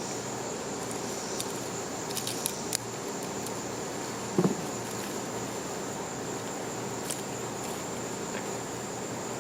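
Crickets trilling in a steady, unbroken high-pitched drone. A few faint clicks come about two to three seconds in, and a short thud a little after four seconds in.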